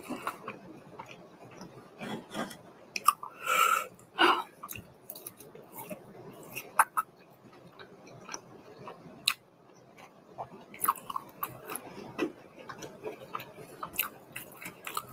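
Chewing of a breaded chicken nugget, with irregular mouth clicks and a louder burst of noise about three and a half seconds in.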